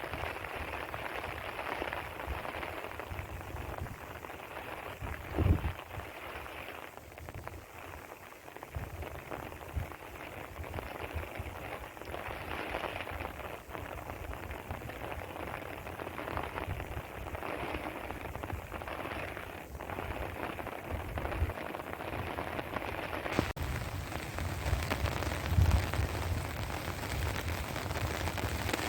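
Heavy rain falling steadily on the ground, with a few low thumps, the loudest about five seconds in and again near the end, and a single sharp click a little before that.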